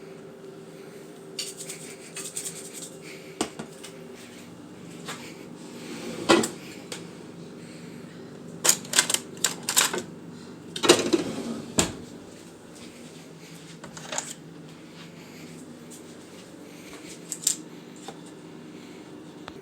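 Irregular clicks, taps and knocks of small hard objects being handled, with a cluster of louder clatters in the middle, over a steady low hum.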